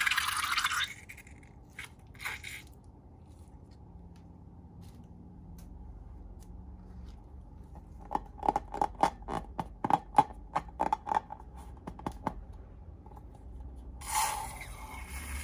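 Slime being handled and squeezed: a brief scraping rustle, then a quick run of small sticky pops and clicks, about three or four a second, and another rustle near the end.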